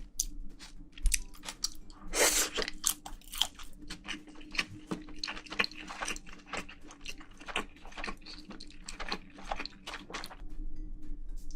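Close-miked chewing and crunching of a mouthful of spicy braised seafood, with a quick run of crisp, wet crackles and smacks, busiest a couple of seconds in.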